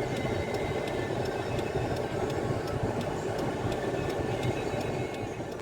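Steady rumble of street traffic, fading out near the end.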